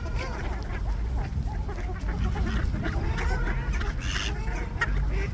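A flock of ducks calling together, many short quacks overlapping.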